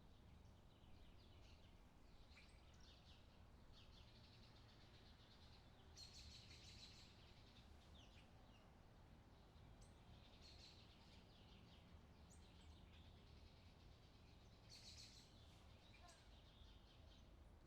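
Faint birdsong: several birds chirping and trilling in short repeated phrases, loudest about six seconds in and again near the end, over a low steady rumble.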